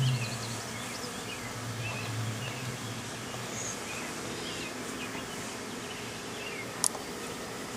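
Honeybees humming around an open hive, with a close buzz that fades over the first couple of seconds. Small birds chirp faintly, and a single sharp click sounds near the end.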